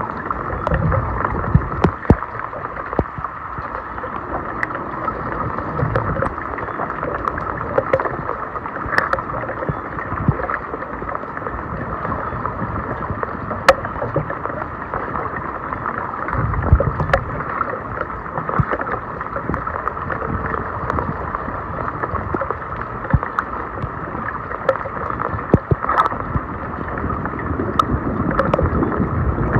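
Floodwater sloshing and splashing around a clogged street drain, with scattered sharp clicks and knocks.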